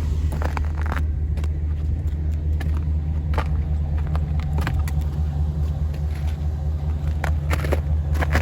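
Pickup truck engine idling steadily, a constant low rumble, with a few faint clicks over it.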